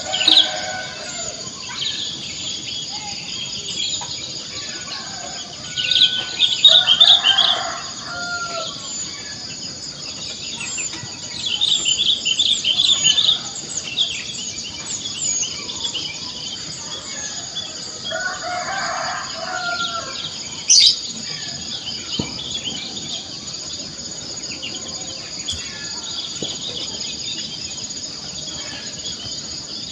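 A rooster crowing three times, near the start, about 7 s in and about 19 s in, with small birds chirping in quick bursts between crows. A steady high-pitched hum runs underneath.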